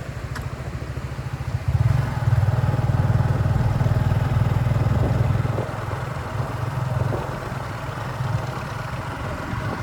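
An engine running with a fast low throb, growing louder about two seconds in and easing back around six seconds.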